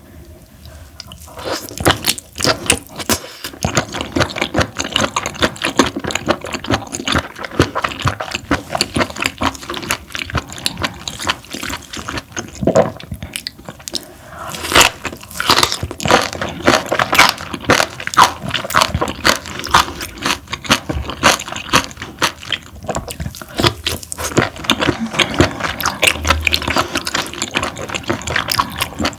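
Close-miked chewing of parboiled webfoot octopus: a dense run of wet, springy smacks and crunchy clicks, with a short pause about halfway through.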